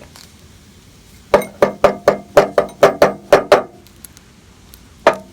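Cut-open HVAC filter-drier being knocked against a hard surface: about a dozen quick knocks over two seconds, then a single knock near the end, shaking loose the debris trapped inside.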